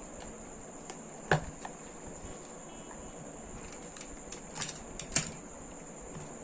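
A few short, sharp taps and clicks of hands handling a small plastic charger casing, the loudest a little over a second in and two more near the end, over a steady high-pitched whine.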